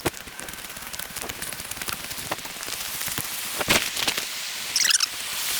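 Scattered small ticks and taps over the steady rush of creek water, which grows louder towards the end, with a short chirping call about five seconds in.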